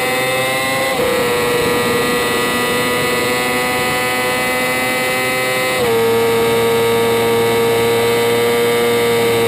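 Racing sport bike engine running flat out at high, steady revs, recorded on the bike, with wind and road noise. Its pitch drops slightly and suddenly twice, about a second in and again near six seconds.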